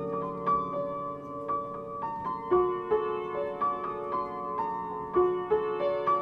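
Piano playing a slow, gentle melody: notes struck about every half second and left to ring over sustained chords.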